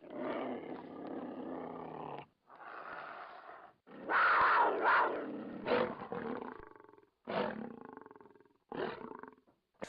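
Animatronic jungle animals' roars and growls, played as sound effects in several bursts with short breaks of silence between them.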